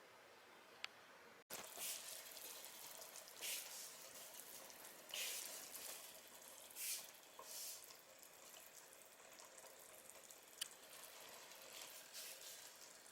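Faint water sounds: a few short splashes and drips over a low hiss, with two sharp clicks.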